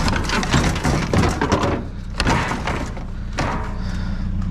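A flurry of clattering knocks and bangs from scrap being handled and dropped, with two more single knocks later. Underneath, a vehicle engine idles steadily.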